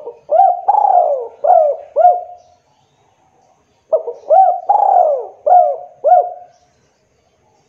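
Spotted dove (tekukur) cooing: two phrases of several quick, arched coos, separated by a pause of about a second.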